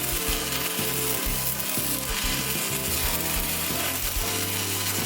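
Stick-welding arc crackling steadily as a 1/8-inch 6011 electrode lays a root pass, with background music underneath.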